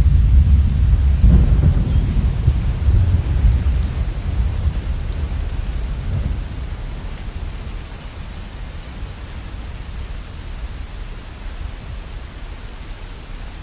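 Heavy rain falling steadily, with a low rumble of thunder that rolls and slowly fades away over the first half.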